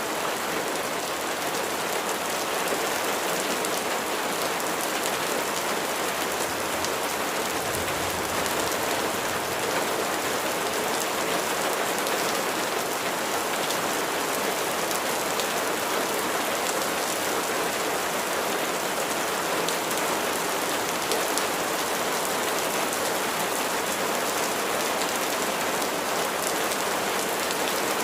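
Steady rain falling, an even hiss of many drops on a surface, with no break or change.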